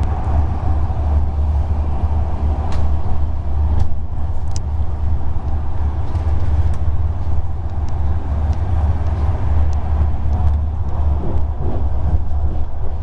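Passenger train coach running at speed, heard from inside: a steady low rumble of the wheels on the rails, with a few faint clicks.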